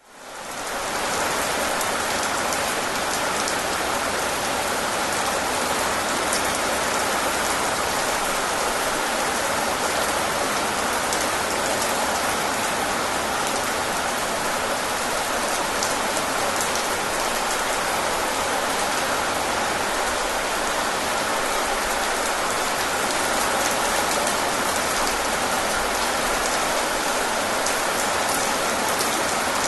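Steady rain falling, a dense hiss with the fine patter of individual drops, fading in over the first second.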